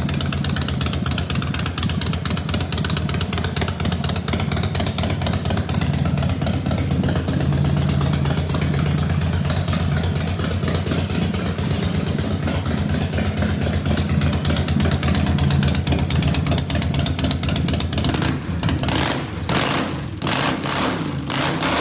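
Motorcycle engine running at idle with a fast, steady beat; near the end the sound turns choppy, rising and falling several times.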